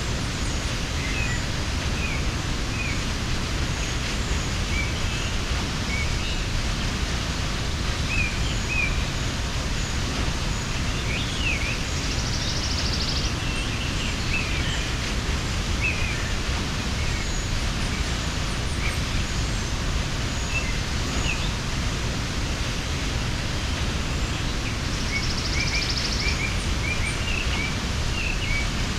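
Steady rush of a mountain waterfall, with small birds chirping on and off over it. A short buzzy trill sounds near the start, again about twelve seconds in, and near the end.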